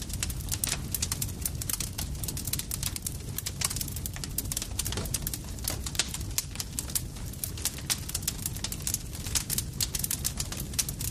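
Campfire crackling: many small sharp pops and snaps at irregular, frequent intervals over a steady low rumble of the burning fire.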